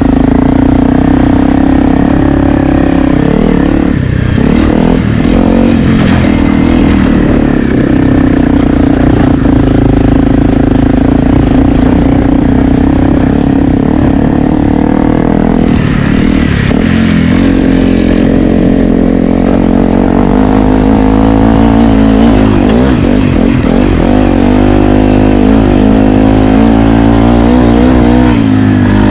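Honda CRF250L's single-cylinder four-stroke engine running under load while being ridden. The engine note dips about four seconds in and again around sixteen seconds, then rises and falls with the throttle near the end.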